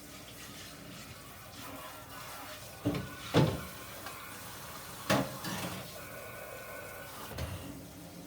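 Knocks and clunks of things being handled in a kitchen: two close together about three seconds in, the loudest of them just after, another about five seconds in, and a softer one near the end.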